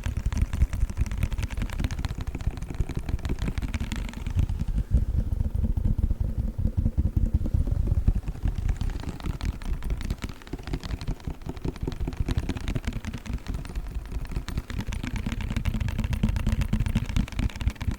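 A cold pack handled rapidly close to the microphone: a dense, unbroken run of fast taps and squishes with a heavy low thud.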